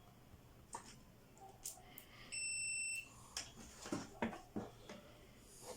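Multimeter continuity buzzer giving one short, steady, high beep a little over two seconds in: the probes have found a connection, here a ground point on the TV mainboard. Light clicks and taps of the probes against the board come before and after it.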